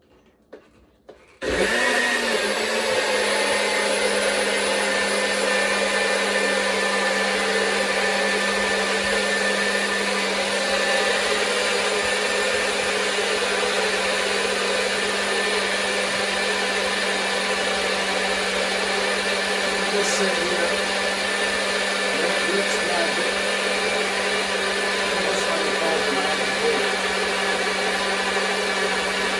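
NutriBullet blender starting about a second and a half in and then running steadily, a loud whirring motor with a steady hum, blending a banana, honey and water smoothie.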